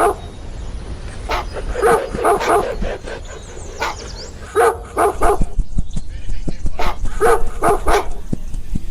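A dog barking in runs of several quick barks, with pauses of a couple of seconds between runs, over a steady low rumble.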